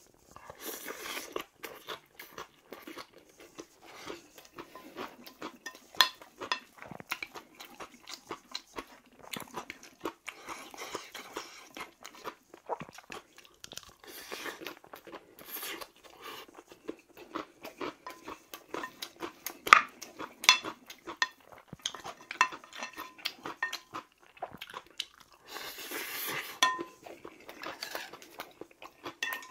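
A person crunching and chewing a mouthful of raw kohlrabi salad bibimbap: a dense run of crisp crunches, with a few sharp clinks of utensils against the pot.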